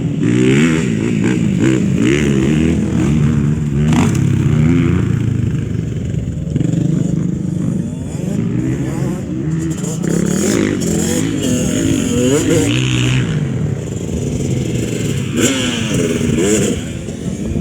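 Dirt bike engines running and revving, their pitch rising and falling over and over, with a sharp clack about four seconds in.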